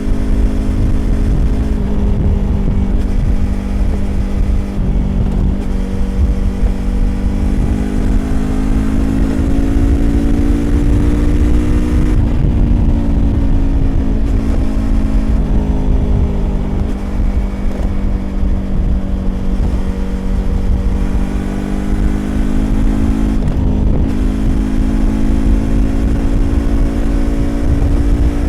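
Yamaha YZF-R25's 250 cc parallel-twin engine through an aftermarket Prunus exhaust, riding at cruising revs. Its pitch rises and eases back several times as the throttle is worked.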